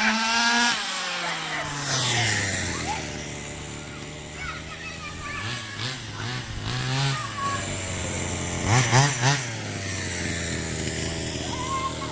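Ported 45cc two-stroke engine of a 1/5-scale Rovan Baja RC car running at high revs, its pitch rising and falling as the throttle is worked, with a few quick sharp revs about nine seconds in. The carburettor's top end has been set leaner to make it scream more.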